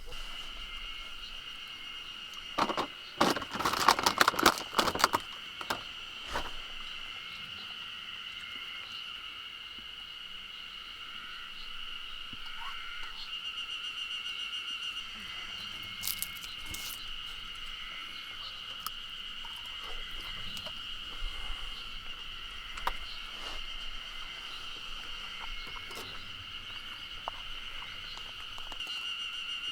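A steady chorus of insects trilling, with a burst of sharp clattering knocks about three to five seconds in and a few single clicks later.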